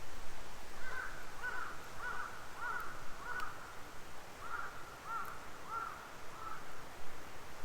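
A bird calling in the distance: a series of about nine short, arched calls about half a second apart, with a short pause midway. Under it, the low hiss and a few faint crackles of a wood fire.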